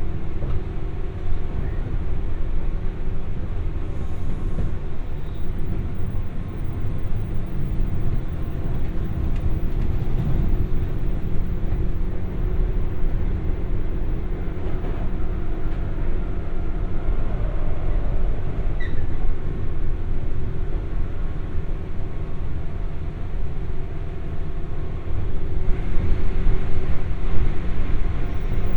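JR West 201-series electric train heard from inside the MoHa 201 motor car while running at speed: a steady rumble of wheels on rail with a low, even motor hum. The noise gets louder and harsher about 26 seconds in.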